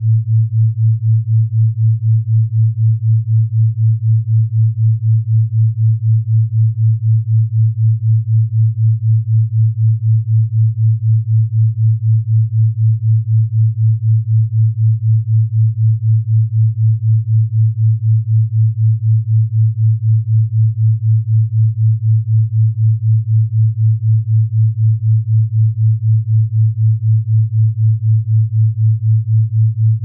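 Brainwave-entrainment sound: a single low, pure hum that pulses evenly in loudness a few times a second, meant to ease the listener into a short nap.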